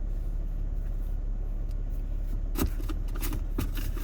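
Steady low hum of a running vehicle heard from inside, with a cluster of sharp clicks and rattles in the second half.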